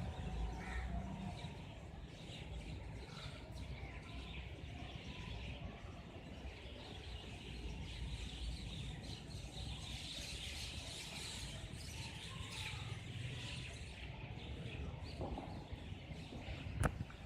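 Birds chirping over a steady background of outdoor noise with a low rumble, and a single sharp click near the end.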